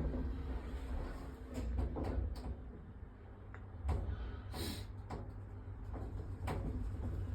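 Station lift in operation: a steady low hum with scattered clicks and knocks from its doors and mechanism, the loudest knock about four and a half seconds in.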